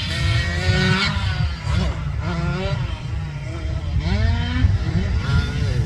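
Several motocross dirt bike engines racing together, revving up and down, with overlapping pitches rising and falling.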